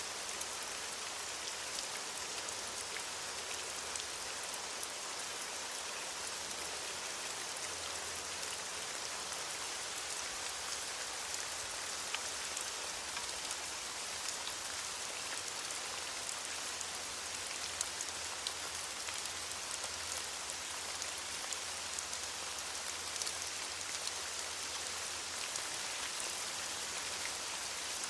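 Steady rain falling on leaves, an even hiss with scattered individual drops ticking.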